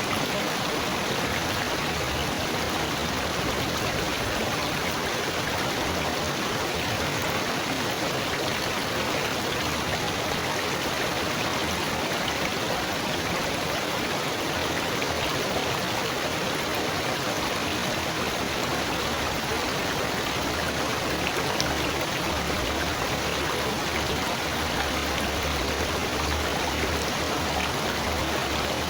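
Water trickling and burbling steadily.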